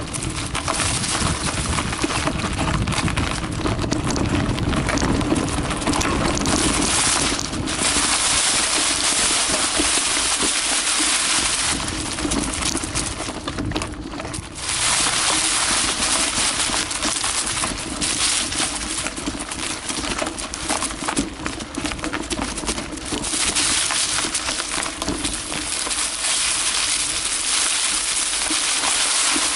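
Carraro Big 827 mountain bike rolling downhill on a dirt forest trail: tyres crunching over soil and stones, with the chain and frame rattling over bumps. The sound is continuous and loud, briefly easing a couple of times.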